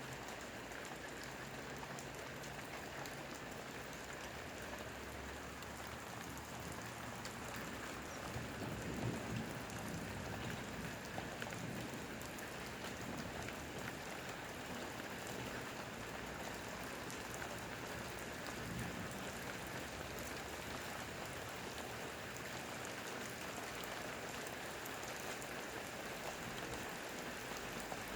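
Steady thunderstorm rain falling, with many small drops ticking.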